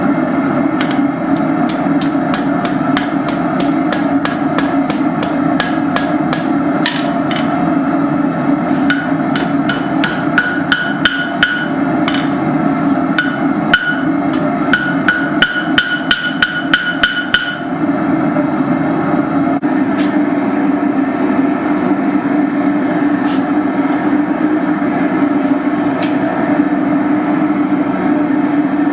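Blacksmith's hammer striking steel hook stock on an anvil, about two to three ringing blows a second, for roughly the first seventeen seconds, then stopping. A steady loud rushing noise runs underneath throughout.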